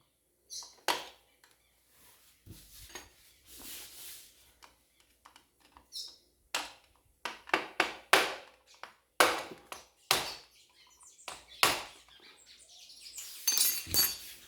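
Irregular sharp clicks and knocks of tools and parts being handled on a motorcycle engine during top-end disassembly, a dozen or so spread over the stretch. Bird chirps come in near the end.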